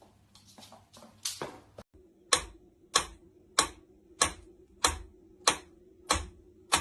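A steady series of sharp ticks, about three every two seconds, eight in all, starting about two seconds in, over a faint steady hum. A few fainter clicks and rustles come before them.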